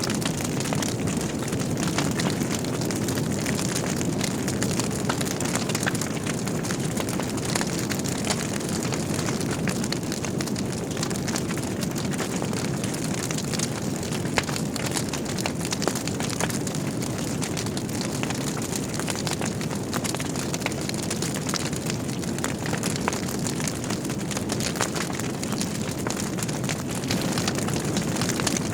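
Wood fire burning in a fireplace: a steady low rush of flames with frequent small crackles and pops, one sharper pop about halfway through.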